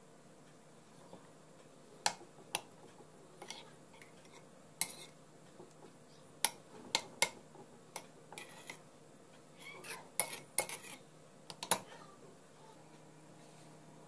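Kitchen clatter: dishes and utensils clinking and knocking in scattered, separate strikes.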